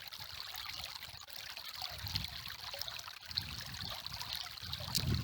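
River water flowing and trickling steadily, with soft low swells of moving water.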